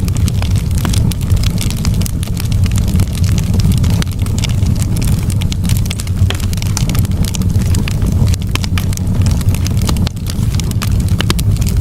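Campfire crackling, with frequent sharp snaps and pops of burning wood over a steady low rumble.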